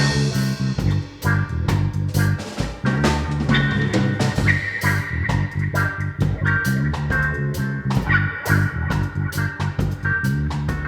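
Band playing an instrumental passage: electric guitar and bass guitar over drums, with a crash near the start and a held high guitar note about halfway through.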